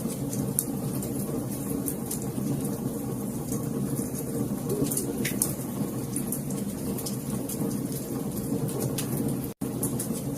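Wood fire crackling, with frequent small sharp pops over a steady low rumble of the flames. The sound drops out to silence for an instant about nine and a half seconds in.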